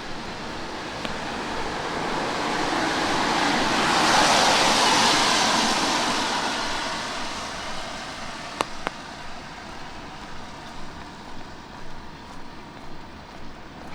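A car passes on a wet road, its tyre hiss swelling to a peak about four seconds in and fading away by about eight seconds. Two sharp clicks follow, then footsteps on wet pavement at an even walking pace.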